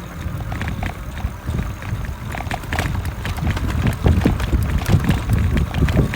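E-bike moving over a sandy, rough trail: a steady low rumble with irregular rattles and knocks, getting louder from about four seconds in.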